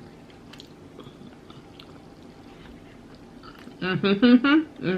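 Faint chewing with small wet mouth clicks, close to the microphone, then a woman starts speaking near the end.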